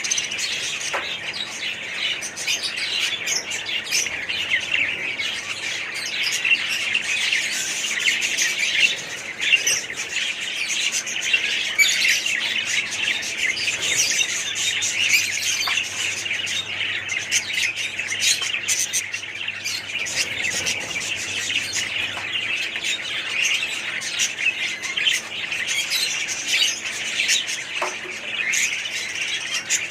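Many caged budgies and other small parrots chattering together: a dense, continuous mass of high chirps with sharper calls standing out here and there.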